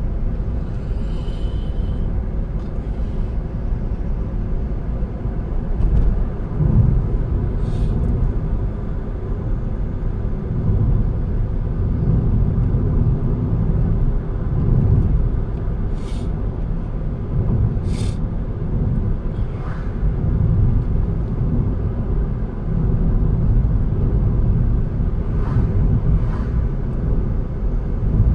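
Car driving along a road: a steady low rumble of engine and tyre noise. A few short sharp ticks come through, the two clearest a little past the middle.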